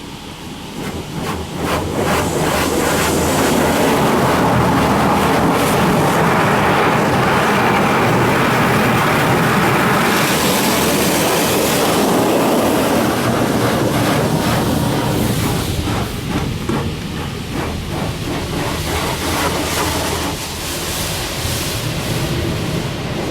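Water jets of a D&S 5000 rollover car wash spraying onto the car, heard from inside the cabin, over the rumble of the machine travelling along its rail. The spray swells about two seconds in and then holds steady.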